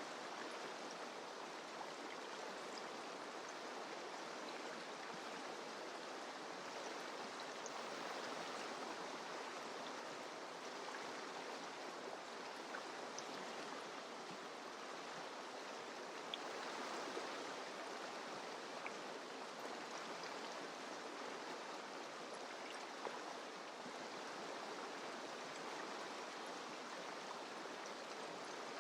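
Mountain river rushing and splashing over rocks, a steady even flow with small droplet splashes now and then.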